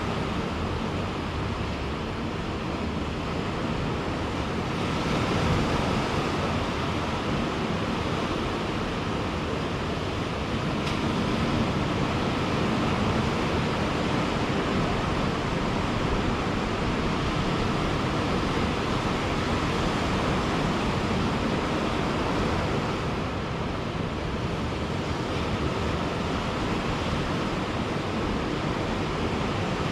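Ocean surf breaking and washing in steadily, a continuous rushing noise that swells gently every several seconds.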